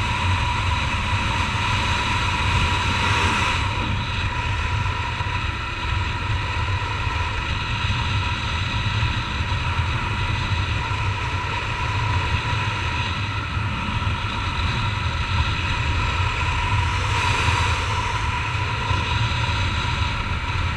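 Honda CG Titan 150 single-cylinder motorcycle running at a steady cruising speed, its engine note mixed with heavy wind rush on a helmet-mounted microphone.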